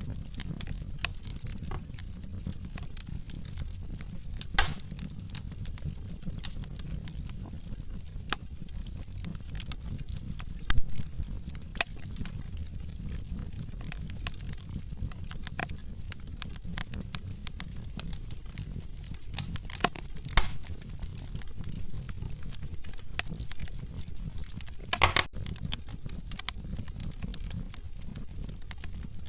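Wood fire in a fireplace, logs burning with a steady low rumble of flame and irregular crackles and sharp pops, a few louder pops standing out.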